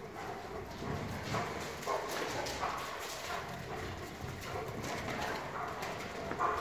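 Kangal dogs moving about close by, making irregular clicks, knocks and scuffs.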